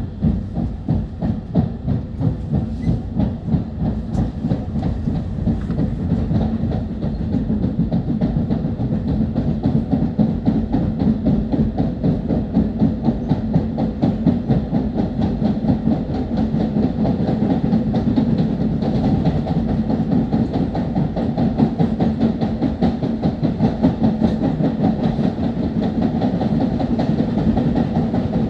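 Long Island Rail Road M3 electric multiple-unit train running, heard from on board at the front of the car: a steady rumble of wheels on the rails with a rapid clickety-clack.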